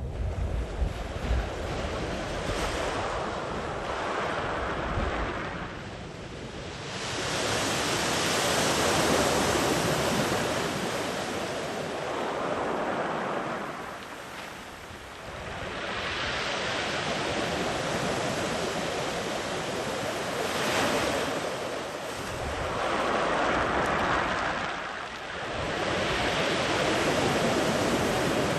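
Sea waves rolling in and washing far up the shore, in several swells a few seconds apart. Wind rumbles on the microphone in the first couple of seconds.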